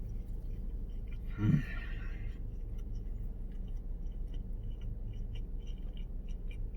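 A man chewing a mouthful of chicken finger sub, with small wet mouth clicks. About a second and a half in there is one short, louder vocal sound whose pitch falls.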